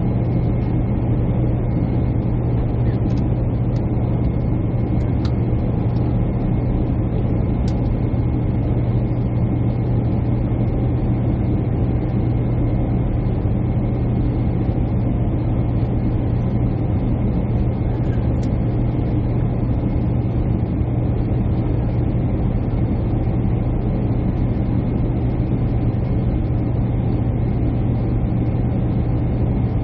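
Steady cabin drone of a jet airliner in flight: engine and airflow noise with a strong low hum, unchanging throughout.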